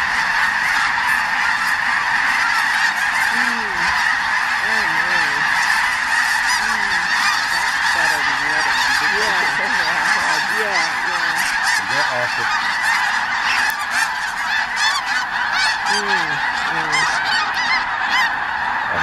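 A huge mixed flock of snow geese and Ross's geese calling all at once: a dense, continuous din of countless overlapping honks that never lets up.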